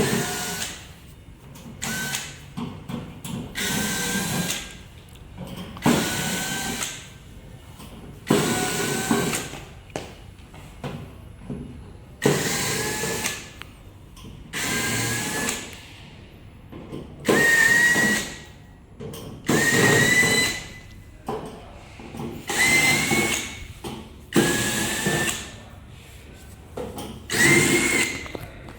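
A small electric motor run in short bursts, about one every two seconds, each with a whine that rises slightly in pitch, with quieter handling noises in between.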